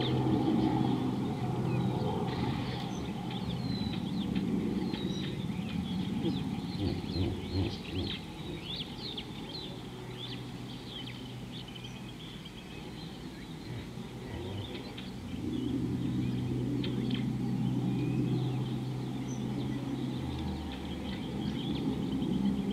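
Many wild birds chirping and calling in short, rapid notes, over a low steady hum.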